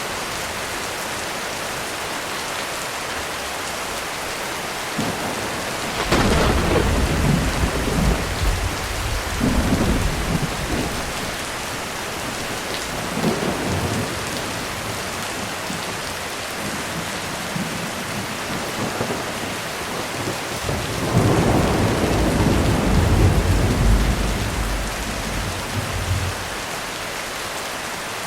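Steady heavy rain on a roof, with thunder: a sharp crack about six seconds in that rolls on for several seconds, a shorter rumble near the middle, and a long low rumble in the last third.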